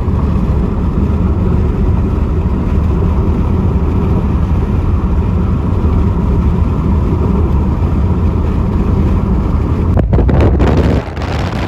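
Summer downpour with wind: a steady, loud low rumble of wind buffeting the microphone under the rain. Near the end it breaks up for a moment, then goes on quieter and hissier.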